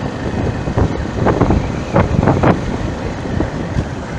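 Road traffic with wind buffeting the microphone, a steady rumbling noise with several louder gusts in the middle.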